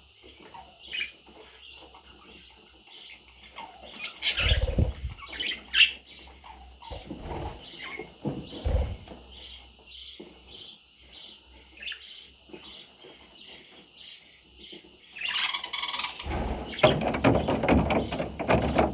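Baby budgerigars chirping in a steady series of short, high calls, about two a second, with louder bursts of rustling and scuffling, the longest near the end.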